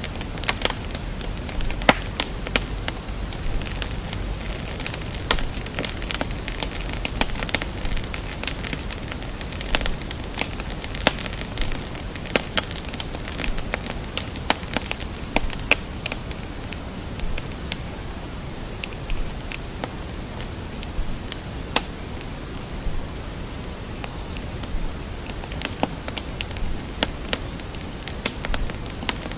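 Crackling fire: irregular sharp pops and snaps over a steady low rush of burning, with more crackles in the first half.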